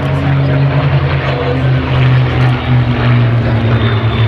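Spitfire and Hurricane fighters' Rolls-Royce Merlin V12 piston engines droning loudly as the aircraft fly past, the engine note slowly falling in pitch.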